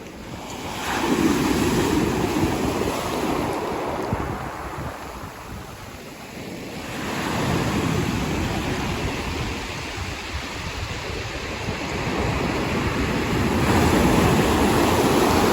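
Sea waves breaking and washing onto the shore, with wind buffeting the microphone. The surf swells three times: about a second in, around seven seconds in, and again near the end.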